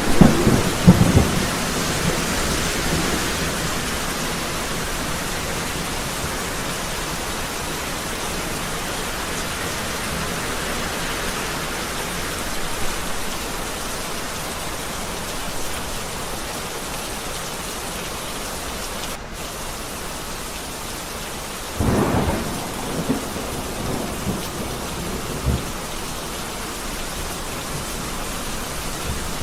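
Heavy rain falling steadily, with thunder cracking and rumbling at the start and again about two-thirds of the way through.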